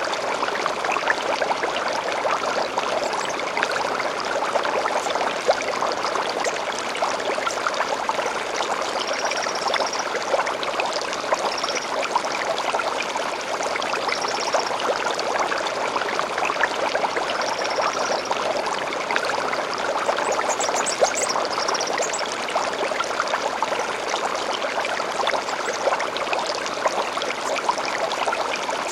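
A small stream babbling and trickling steadily, with faint, brief high bird chirps now and then through the middle stretch.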